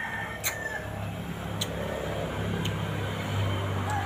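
Close-up chewing of raw green mango, with three sharp crunches about a second apart, over a steady low hum that grows from about a second in.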